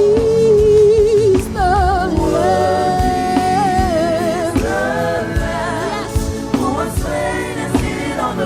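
Live gospel worship music: a singer holds long notes with vibrato over a band with drums.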